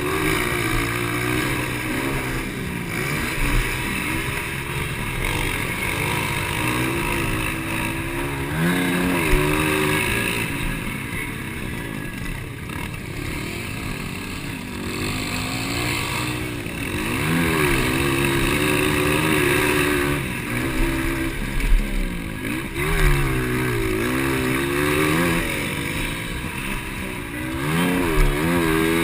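Several 200cc motocross bikes racing, their engines revving up and dropping back again and again as they pass, sometimes more than one at once.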